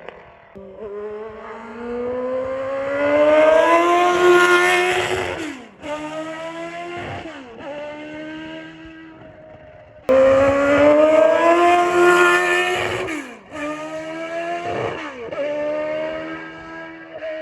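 Formula One car engine at high revs: one long rising pull as it accelerates, then several sharp drops in pitch as it downshifts. About ten seconds in the sound jumps abruptly to another loud high-revving run, again followed by quick downshifts.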